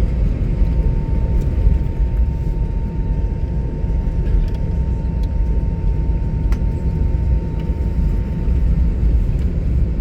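Steady low rumble of a vehicle in motion, with a thin steady whine above it and a few faint clicks.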